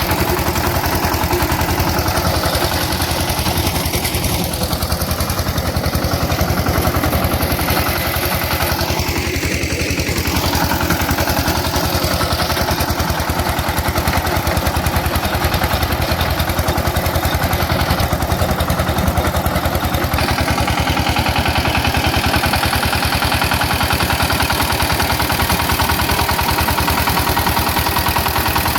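Power tiller engine running steadily with an even, rapid firing beat.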